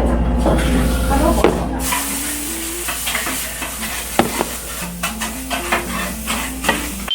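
Food sizzling as it fries, with a steady hiss that swells about two seconds in and sharp clinks of dishes and utensils. A simple melody plays softly underneath.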